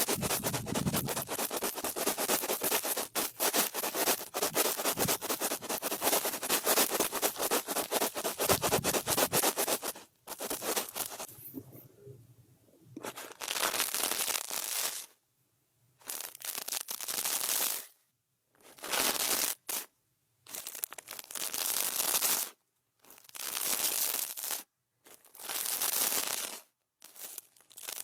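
A brush scratching and rubbing close against a microphone in a continuous, crackly stream for about ten seconds. It then breaks into separate swishes of about one to two seconds each, with short pauses between them.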